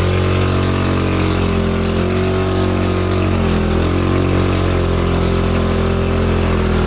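Motorcycle engine running at high, steady revs under load on a steep climb. Its pitch dips briefly twice.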